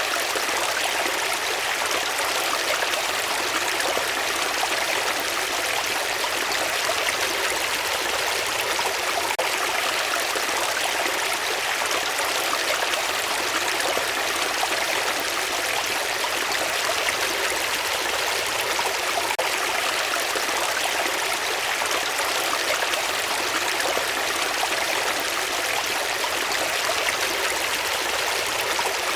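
Running water flowing steadily, like a stream, as an even, unchanging rush.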